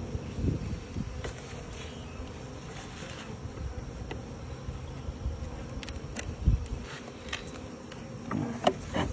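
A mass of honeybees humming steadily, with scattered knocks and clicks of hive equipment being handled and a louder thump about six and a half seconds in.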